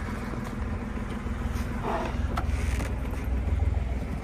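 Boat engine running steadily with a low, rapidly pulsing rumble, its freshly repaired water pump now pumping cooling water through.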